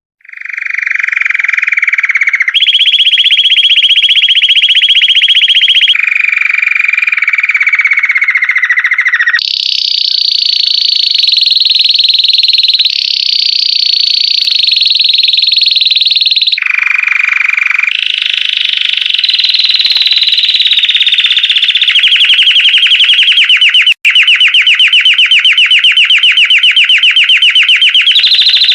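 Belgian canary singing a continuous song of rapid trills. Each trill holds one pitch for a few seconds, then switches abruptly to a higher or lower one, and the last and longest trill has pulses that can be counted.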